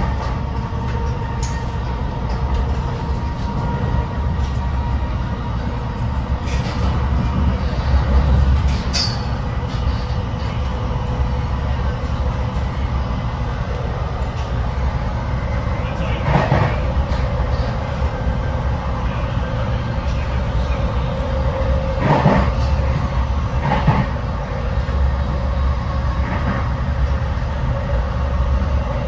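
Inside an NJ Transit MultiLevel passenger coach travelling at speed: the steady low rumble of the car running on the rails. A few sharp knocks come through, spaced several seconds apart.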